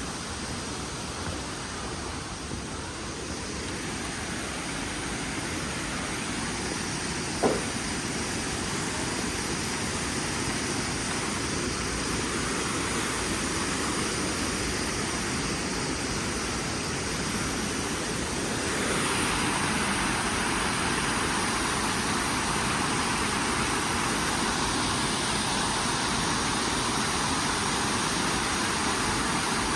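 Steady rush of a waterfall, growing slowly louder and stepping up about two-thirds of the way through. A single sharp click about a quarter of the way in.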